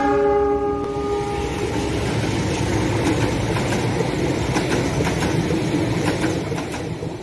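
A locomotive horn dies away in the first second. Then a passenger train's coaches run past close by, wheels clacking over the rail joints, and the noise falls away near the end.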